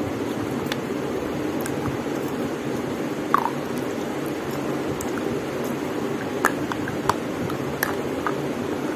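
Close-up chewing and wet mouth clicks, a few sharp clicks over several seconds, against a steady rushing background noise.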